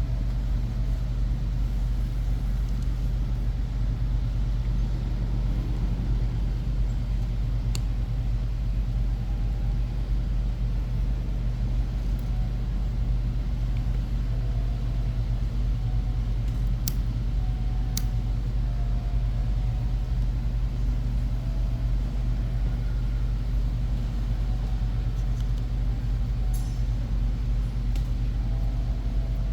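A steady low background hum throughout, with a few faint, sharp clicks of small parts being handled as a version-2 airsoft gearbox shell is closed.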